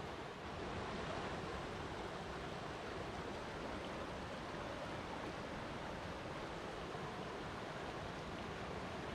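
Flowing water making a steady, even rushing sound.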